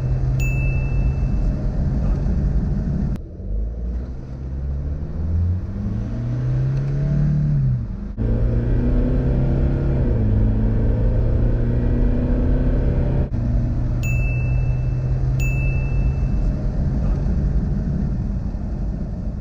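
Toyota Fortuner's 1GD 2.8-litre four-cylinder turbodiesel idling steadily, then accelerating hard, its revs rising and dropping back at the gear changes, then settling to a steady idle again. Later, two short high beeps a second and a half apart.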